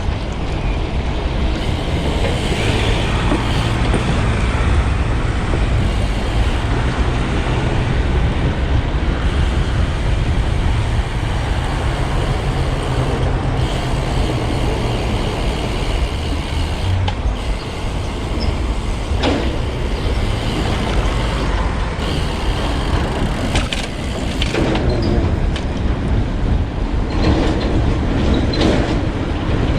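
Wind rushing over the microphone of a camera riding on a moving road bike, with road traffic noise around it.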